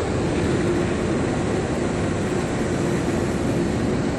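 Ryko car wash air dryers blowing on the car as it drives through: a loud, steady rush of air with a low hum under it.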